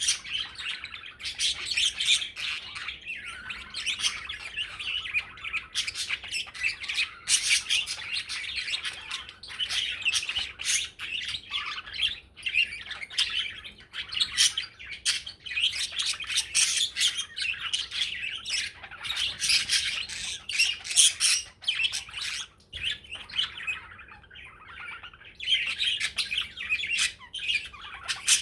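Male budgerigar (parakeet) warbling: a fast, continuous stream of chirps, clicks and squawks, with a short lull near the end.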